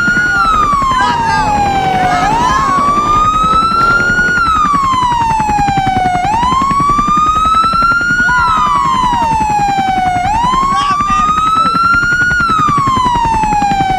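Electronic siren sounding a wail, its pitch rising and falling in slow sweeps of about four seconds each, three and a half cycles, over a steady low rumble.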